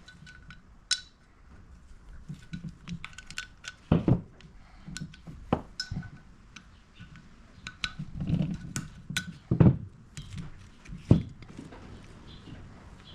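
Small metal parts and tools clinking and tapping against each other and a hard surface, irregularly, with a few heavier knocks.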